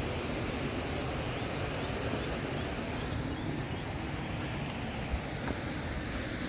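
Steady rushing of a small waterfall.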